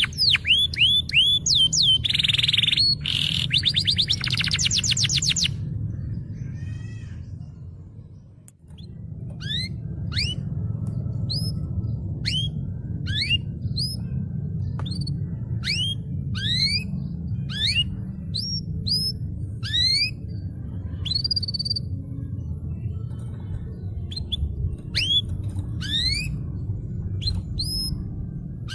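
Domestic canary singing: rapid trills and quick falling notes for about five seconds, then after a short lull a long series of rising, upsweeping chirps about one or two a second. A steady low rumble runs underneath.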